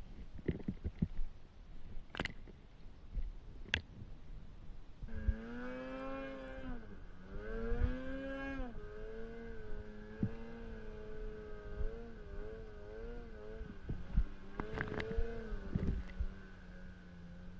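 A vehicle engine being ridden. For the first five seconds there are only scattered knocks and clicks over a low rumble. The engine then comes up, revs up and down twice, wavers in pitch for a few seconds, rises once more and settles into a steady run near the end.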